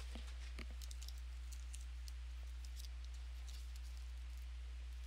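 Faint, irregular clicks of typing on a computer keyboard, over a steady low electrical hum.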